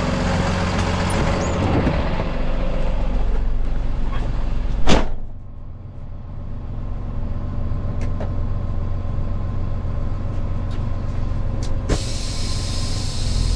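Tow truck engine running steadily while the truck is moved into position. About five seconds in comes a single sharp bang, the loudest thing here; after it the sound is duller until near the end, when it opens up again.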